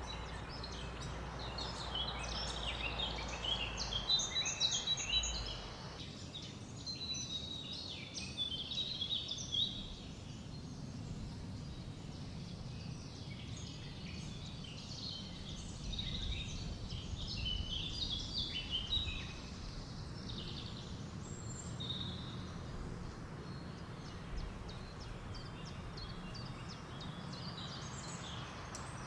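Forest ambience: many short chirps and song phrases from several small birds, over a steady low rush of wind. A background hiss thins out about six seconds in.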